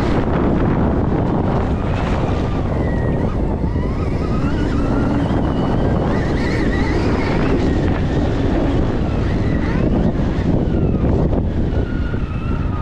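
Stark Varg electric dirt bike being ridden, its electric motor whine rising and falling with speed under heavy wind rush on the microphone.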